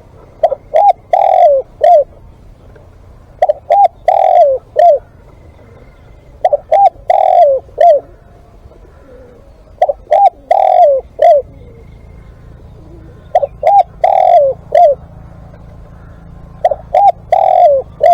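Spotted dove cooing: six repeated phrases about three seconds apart. Each phrase is two short coos, a longer drawn-out coo and a final short coo.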